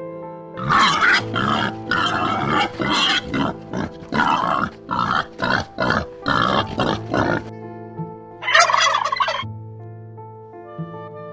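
Turkey gobbling: a long run of rapid rattling gobbles, then one shorter gobble about two-thirds of the way in, over soft background music with held notes.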